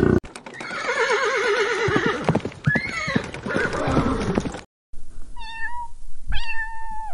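A horse whinnying: one long call that quavers and falls in pitch. After a cut, a few short high calls from another animal follow.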